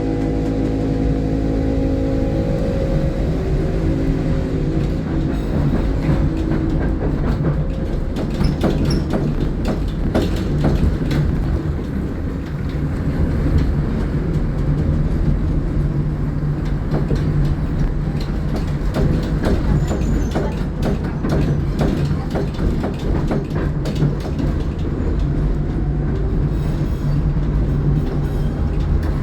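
Tatra T6B5SU tram running along the track. Its motors whine with several tones that fade over the first few seconds, over a steady low hum, and the wheels give irregular clicks and knocks over rail joints.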